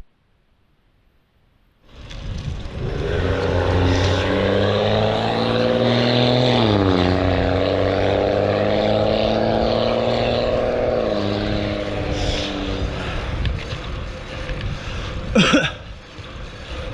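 After about two seconds of near silence, a nearby motor vehicle's engine runs steadily. Its pitch drops twice, about seven and eleven seconds in. A brief, sharp squeal slides quickly downward near the end.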